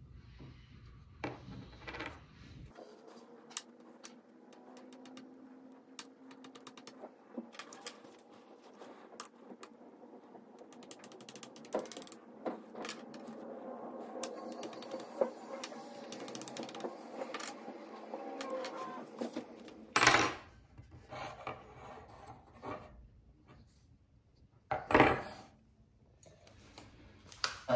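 Small rubber toy-truck tyres being handled, set down and rubbed on a sheet of cardboard: a string of light clicks, taps and scuffs, with two louder knocks near the end.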